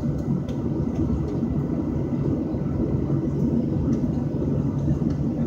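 Steady low rumble inside the cabin of a Boeing 737 airliner sitting on the ground, with a faint constant hum underneath.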